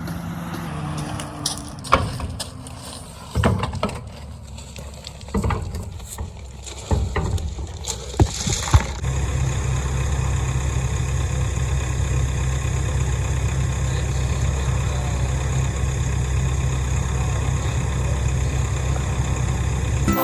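Excavator's diesel engine running, with several sharp clanks and knocks in the first half, then a steady, even engine drone from about nine seconds in.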